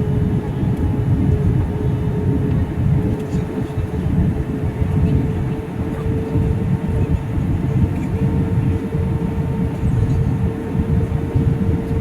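Steady engine drone: a low rumble with a constant hum that does not change in pitch or level.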